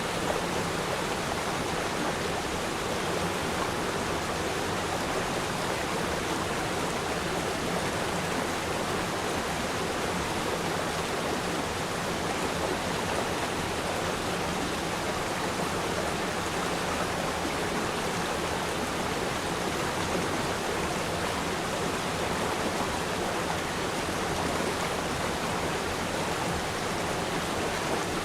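River stream flowing: a steady, even rush of water.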